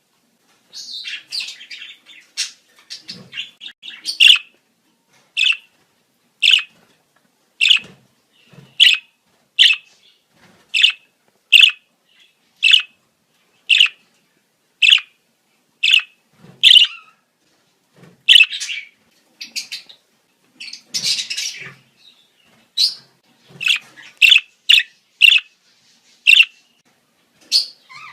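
Budgerigars calling in breeding season: sharp chirps about once a second, broken twice by longer bursts of warbling chatter, with the chirps coming quicker near the end.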